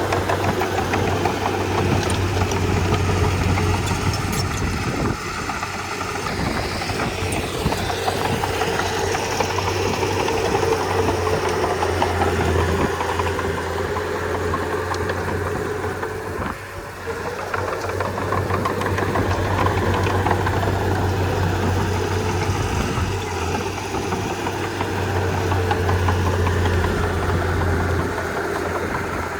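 Komatsu D31P bulldozer's diesel engine running steadily as it works. It gives a steady low drone that dips briefly about five seconds in and again around seventeen seconds.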